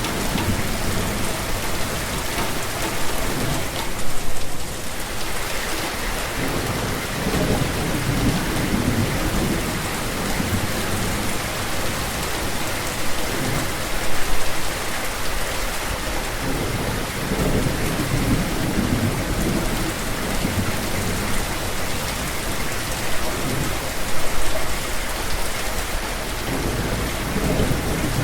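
Steady heavy rain falling as a dense, even hiss. Low rumbles swell and fade underneath it, and the rain briefly gets louder three times.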